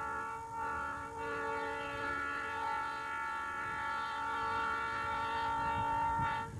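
Narrow-gauge steam locomotive whistle blowing one long, steady blast of several notes at once, dipping briefly twice early on and cutting off suddenly near the end.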